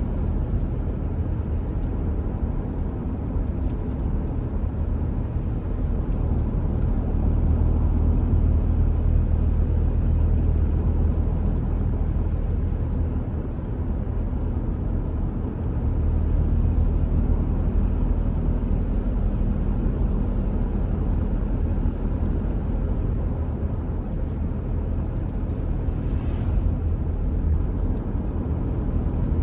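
Car driving at a steady speed: a continuous low rumble of road and tyre noise with engine hum, easing slightly for a moment midway.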